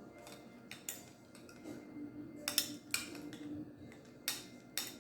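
Sharp clicks and clinks of a crab meal being eaten: crab shell and utensils knocking on a plate, about five in all, the loudest a pair between two and a half and three seconds in.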